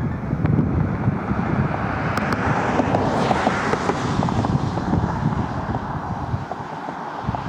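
Boeing 737-200's Pratt & Whitney JT8D turbofans passing overhead on landing approach: jet noise swells to a peak about three seconds in, then fades, with wind buffeting the microphone.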